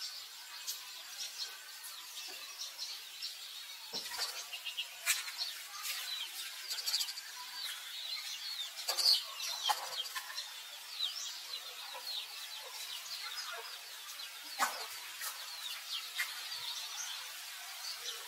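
Birds chirping and calling in the background: many short, high chirps, with a few louder, sharper calls about four, nine and fifteen seconds in.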